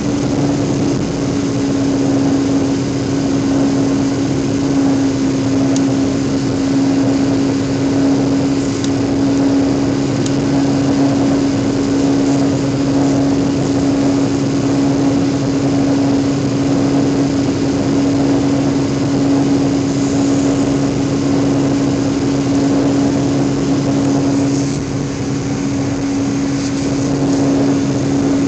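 Jet airliner cabin noise after takeoff: a steady engine drone with a constant low hum.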